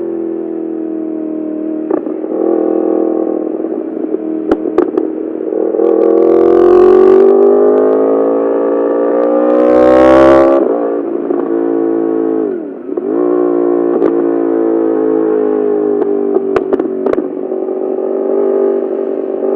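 Yamaha R1's inline-four with an Akrapovic full titanium exhaust, heard from the rider's seat. It holds a steady note, then accelerates with rising pitch from about six to ten seconds in, drops off with a brief dip about thirteen seconds in, and settles back to a steady note. A few sharp clicks are scattered through, with wind buffeting the microphone at the hardest acceleration.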